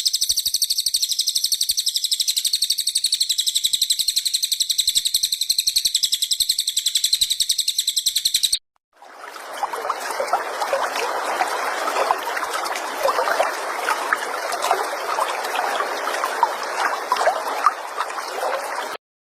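Edited songbird recording of the kind used to tutor cage birds, said to be cililin song material. A rapid high-pitched trill of fast repeated notes runs for about eight and a half seconds and then cuts off. After a moment of silence comes a lower, scratchy chattering full of short chirps, which also cuts off near the end.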